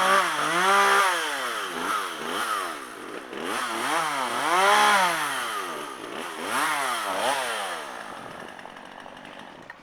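Repaired Poulan two-stroke chainsaw running and being revved repeatedly, its pitch rising and falling about once a second, then dropping away near the end. The saw is on its test run after repair and runs.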